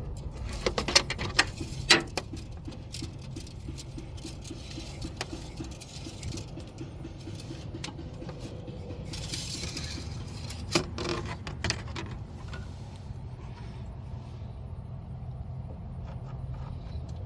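Metal dipstick being pushed back into its tube and pulled out again: a run of sharp clicks and scrapes in the first two seconds and another cluster about eleven seconds in, over a steady low hum.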